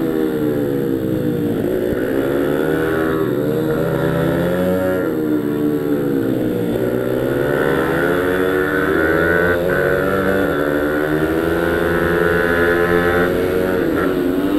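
Pit bike engine revving hard and easing off over and over as it is ridden around a track, its pitch climbing and dropping every second or two.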